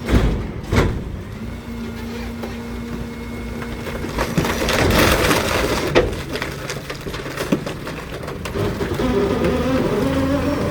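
Garbage truck at work: two sharp bangs, then a steady hydraulic hum, a hiss and another bang, with engine and machinery sounds changing pitch near the end.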